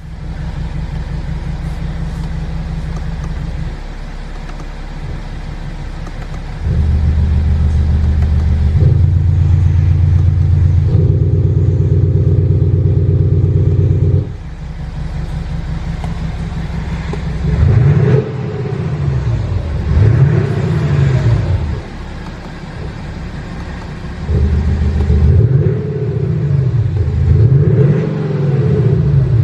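Electronically generated exhaust note from an active-sound system's two exhaust speakers on a BMW 640d xDrive diesel. The note first holds steady, stepping up and down a few times, then rises and falls with repeated revs in the second half.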